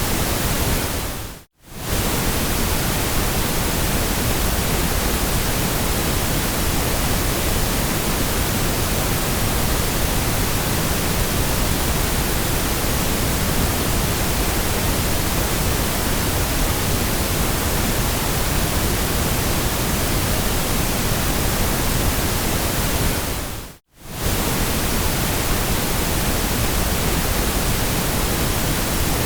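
Steady white noise, an even hiss with no pattern. It briefly fades out to near silence and straight back in twice: about a second and a half in, and again about five seconds before the end.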